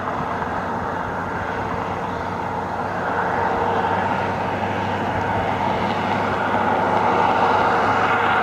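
Steady road and engine noise of a moving vehicle, growing slowly louder.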